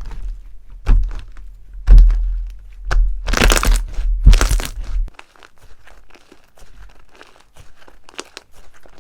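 Crunchy slime being handled, giving sharp cracks and crunches. The loudest crack comes about two seconds in and the loudest crunches follow between three and five seconds, then it drops to a faint, fine crackling.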